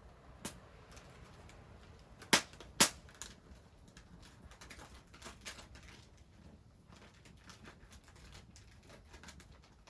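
Sharp snaps or cracks: two loud ones in quick succession about two and a half seconds in, after a smaller one near the start, followed by a run of lighter, irregular clicks and knocks.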